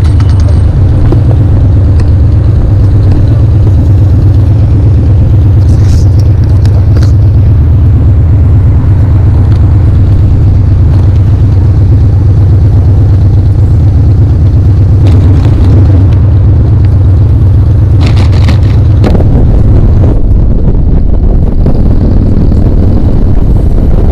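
Harley-Davidson V-twin motorcycle under way at a steady speed: a loud, steady low engine rumble mixed with heavy wind noise on the microphone.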